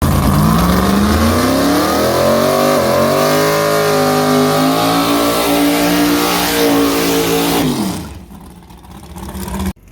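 Race car engine accelerating hard at full throttle, pitch climbing over the first two seconds, dropping briefly about three seconds in as it shifts, then climbing again before it lets off and falls away near the end.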